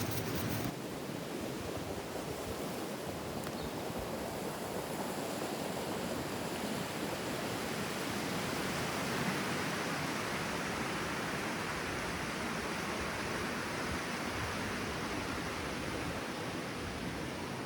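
Steady rushing of a mountain river, an even wash of water noise.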